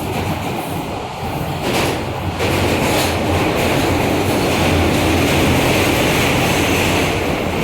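R160A subway car running between stations: a steady rumble of wheels on rail with a few clacks, growing louder about two and a half seconds in.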